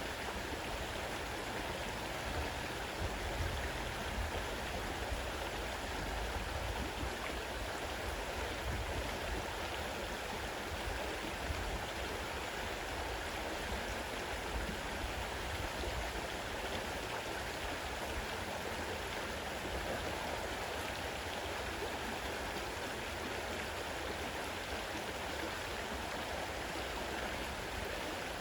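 A fast-running river rushing steadily over its bed, an even, unbroken wash of water noise.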